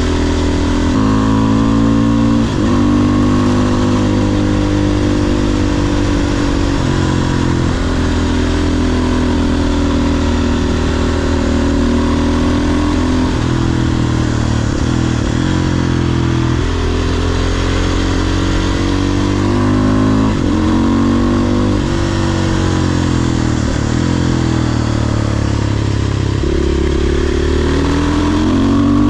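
A 500cc supermoto motorcycle engine under way, revving up through the gears. Its pitch climbs under acceleration and drops sharply at each of several shifts or when the throttle is rolled off, about every few seconds.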